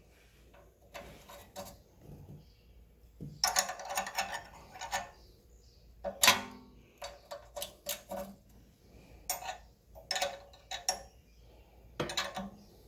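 Metal tools and parts clinking and knocking during hand work on a small engine-driven trash pump: an irregular run of sharp clicks and clatters, the loudest knock about six seconds in.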